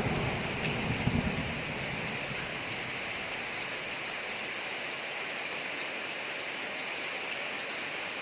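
Steady rain falling on a street, an even hiss, with the low rumble of a thunderclap dying away in the first second or two.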